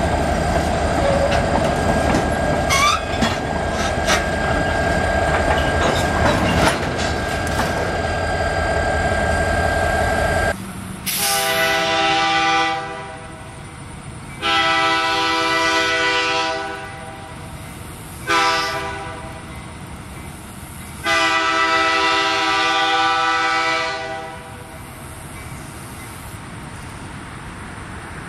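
Freight train of tank cars rolling past close by, its wheels clattering over the rail joints, with a couple of brief squeals. Then the lead EMD F-unit locomotive's air horn sounds the grade-crossing signal: long, long, short, long.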